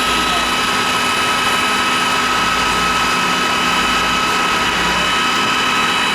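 A loud, steady machine drone with a constant high whine that does not change.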